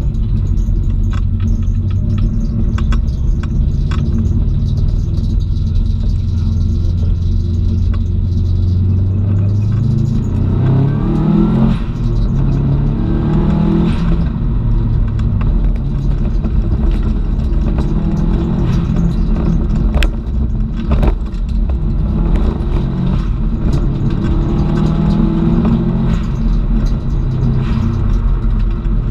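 Subaru Impreza WRX STI's turbocharged flat-four engine heard from inside the cabin while driven hard: a low steady drone at first, then from about a third of the way in the revs rise and fall again and again. A few sharp knocks come through in the middle.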